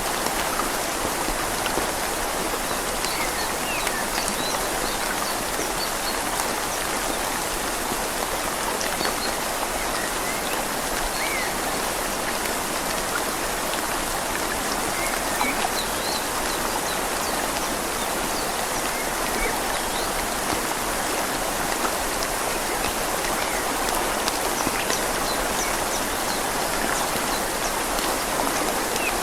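Steady rain falling on leaves over a flowing river, an even hiss with scattered small drop ticks.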